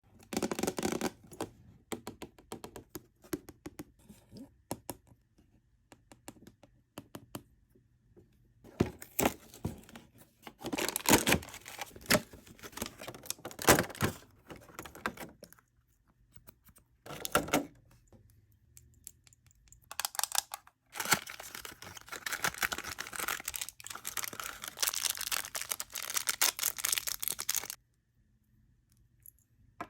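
Toy packaging being opened by hand: paper and plastic tearing and crinkling in bursts, between runs of small clicks and taps.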